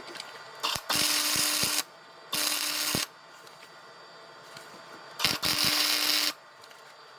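Power drill run in three short bursts, the second one shorter than the other two, each with a steady motor hum.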